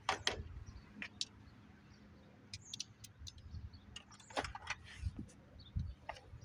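Socket wrench and socket clinking and clicking against metal as a nut is worked loose, a handful of irregular sharp metallic clicks.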